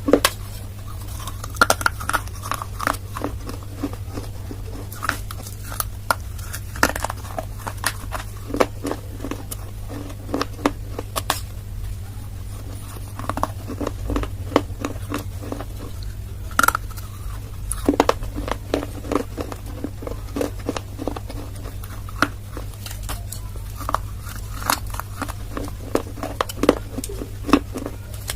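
Baked clay being bitten and chewed close to the microphone: many sharp, irregular crunches and crackles with short pauses between bites, over a steady low hum.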